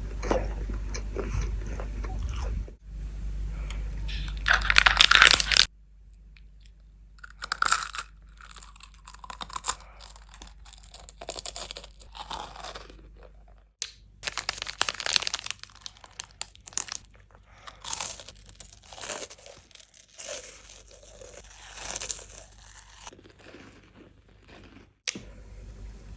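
Close-miked crunching and chewing of candy: a loud, dense run of crunching for the first six seconds that cuts off abruptly, then quieter, scattered crunches and chews.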